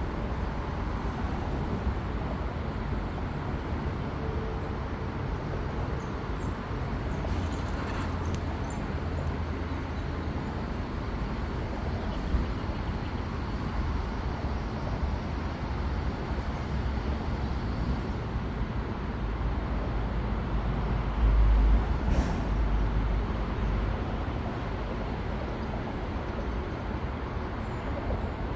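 Steady outdoor vehicle rumble, with a brief louder low thump about three quarters of the way through.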